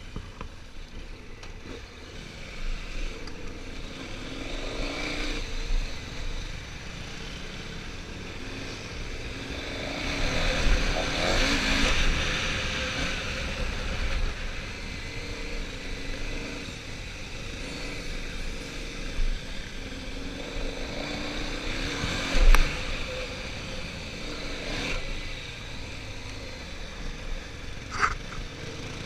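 Dirt bike engines running and revving on a motocross track, rising and falling, loudest about ten to fourteen seconds in. There is a short sharp knock near the end.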